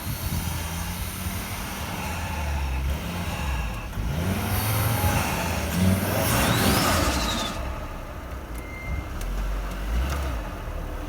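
Volvo XC90's turbocharged engine running, with its pitch rising and falling as it is revved. It grows louder and noisier from about four to seven and a half seconds in.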